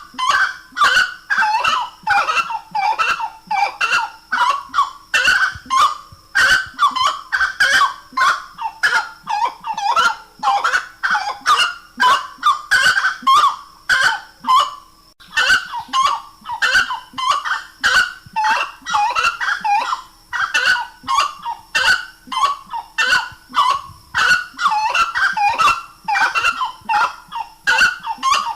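Gray-cowled wood-rail (saracura-três-potes) calling: a long, loud series of rapid, repeated honking notes that carries on without a break, apart from short pauses about six and fifteen seconds in.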